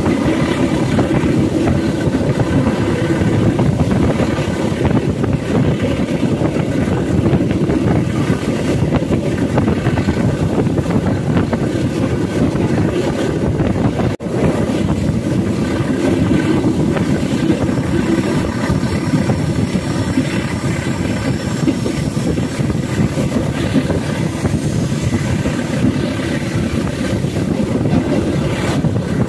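Steady running noise of a moving passenger train, heard from inside the carriage: wheels rolling on the rails at speed. It drops out briefly about halfway through, then carries on.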